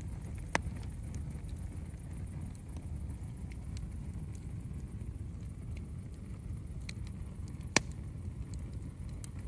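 Wood campfire crackling, with scattered sharp pops, two of them louder, over a steady low rumble.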